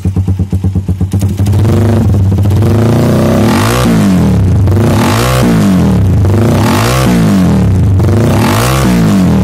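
Suzuki Satria FU's 150 cc single-cylinder four-stroke engine through a half-sarangan racing exhaust run without a silencer insert, idling with a rapid pulse, then held at higher revs and blipped four times, each rev rising and falling back.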